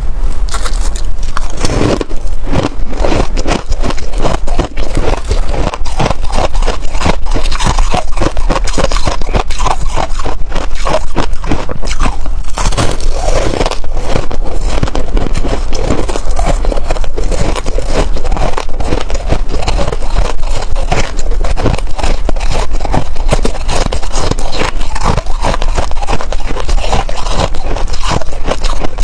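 Freezer frost being bitten and crunched close to the microphone: a dense, continuous run of rapid crackles and scrapes, starting abruptly.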